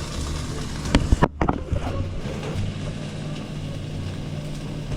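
Chicken breast frying in a pan, a steady sizzle over a low hum, with a few knocks of the pan about a second in.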